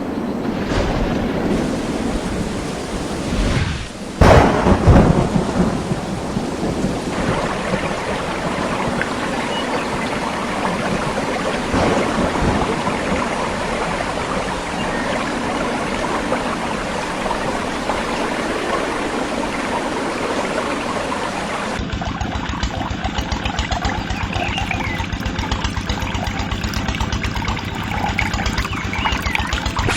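Heavy rain falling steadily, with a loud thunderclap and rumble about four seconds in. About two-thirds through, the rain's sound changes, with a steady low rhythmic pulsing beneath it.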